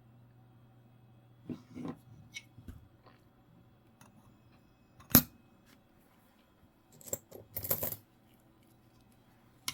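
Coins being handled on a hard surface: scattered clicks and clinks, one sharp clink about five seconds in and a brief scraping clatter around seven to eight seconds, over a faint steady low hum.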